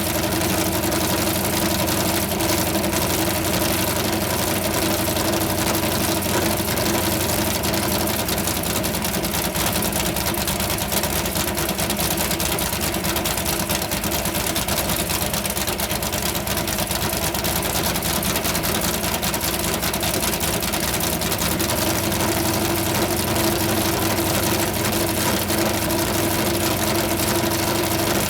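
McLaren M1B's Ford V8 racing engine idling steadily, without revving.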